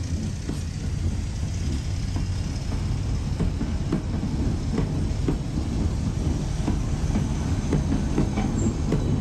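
Narrow-gauge train rolling along the track: a steady low rumble with irregular clacks and knocks of the wheels over the rail joints.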